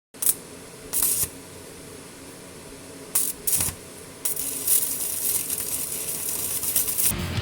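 Welder arc crackling and hissing in a few short tack welds, then a steady bead of about three seconds, welding a steel patch ring onto a thin exhaust pipe.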